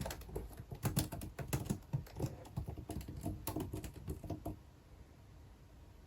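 Typing on a computer keyboard: a quick run of keystrokes that stops about four and a half seconds in.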